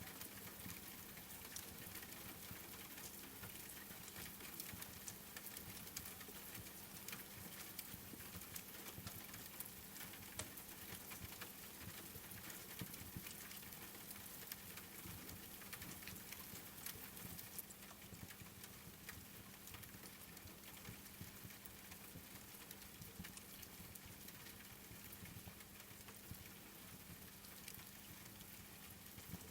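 Quiet crackling wood fire with steady rain: a constant hiss dotted with frequent small sharp pops and ticks, over a faint steady hum.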